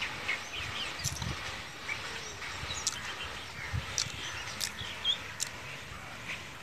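Outdoor ambience with scattered short bird chirps over a low rustling hiss, and a few sharp clicks.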